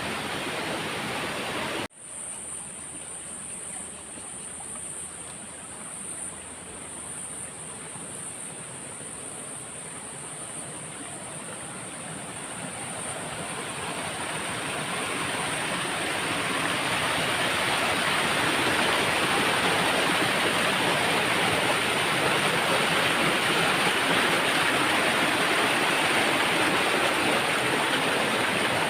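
Rushing water of a stream and waterfall, a steady hiss that breaks off sharply about two seconds in, comes back quieter, then swells gradually and holds louder through the second half.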